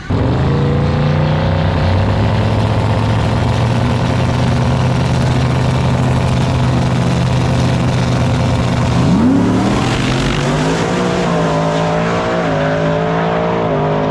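A vehicle engine running at a steady speed, rising in pitch about nine seconds in and then holding at a higher, slightly wavering speed.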